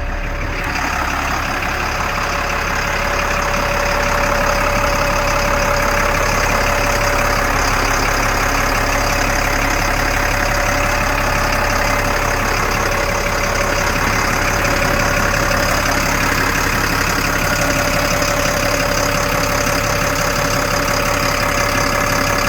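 M1078A1 LMTV truck's turbocharged, intercooled diesel engine idling steadily after a cold start, growing a little louder over the first few seconds and then holding even.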